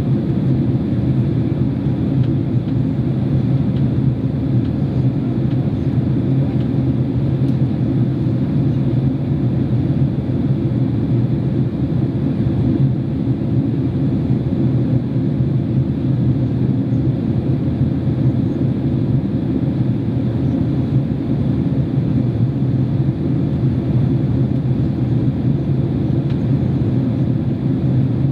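Steady in-flight drone of a Boeing 767-300 airliner heard from inside the economy cabin on the descent to land, an even rush with a strong low hum and no distinct events.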